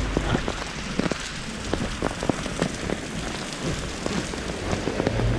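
Heavy rain falling steadily, with drops striking the wet GoPro Hero7 Black directly as many irregular sharp ticks.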